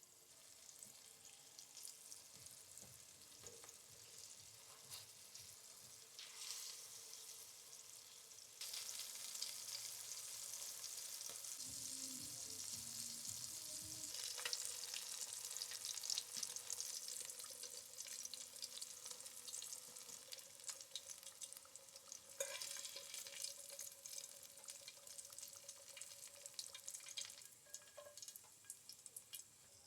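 Pike frying in oil in a pan, sizzling and crackling with many small pops. The sizzle grows suddenly louder about a third of the way in.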